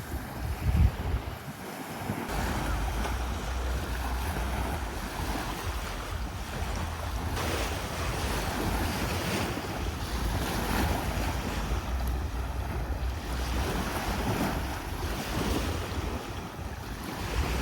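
Sea waves washing ashore in a steady swelling hiss, with wind buffeting the microphone as a low rumble; a short thump about a second in.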